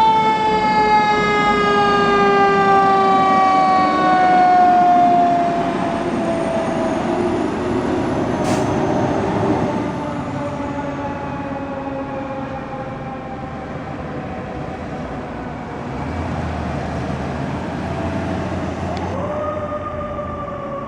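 Fire truck's siren wailing in one tone that slides slowly down over about ten seconds, then rises sharply again near the end and begins another slow fall, over the rumble of the truck and traffic.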